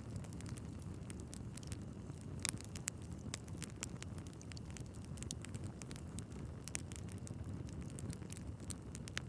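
Wood fire burning in a fireplace: logs crackling and popping in irregular sharp snaps over a steady low rumble of the flames, with a few louder pops.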